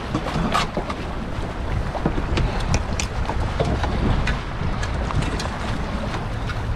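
Strong wind buffeting the microphone in a steady low rumble, with water around the kayak and scattered light clicks and knocks of handling.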